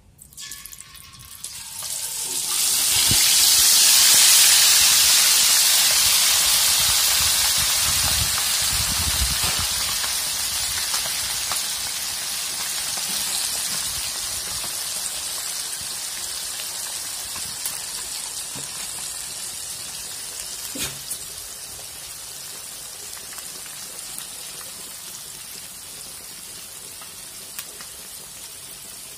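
Food sizzling in hot oil in a pan. The sizzle builds sharply within the first couple of seconds and then slowly dies down, with a few low knocks around eight to nine seconds in.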